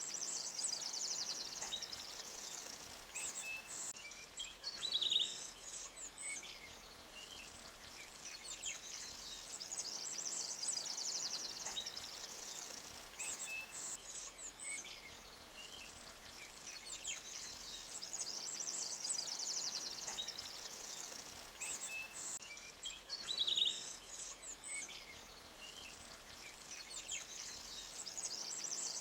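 Forest ambience: birds chirping and twittering over a steady hiss of running stream water. The chirping swells and fades, with a brief louder call about five seconds in and again near twenty-three seconds.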